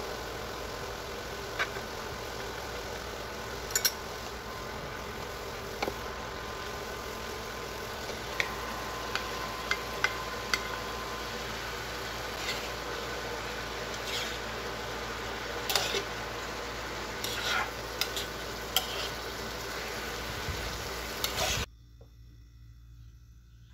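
Vegetable and tofu filling sizzling as it stir-fries in a nonstick frying pan, with scattered sharp taps and scrapes of a spoon stirring it. The sizzle cuts off abruptly about two seconds before the end.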